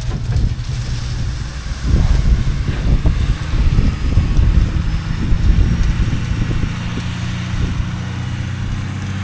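A vehicle engine running steadily, with heavy wind buffeting on the microphone from about two seconds in until about six seconds in.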